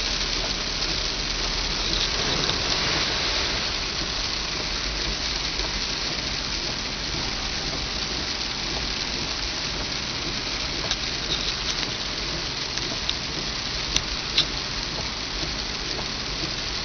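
Heavy rain falling steadily in a downpour, with a few sharp taps of drops striking something about two-thirds of the way through.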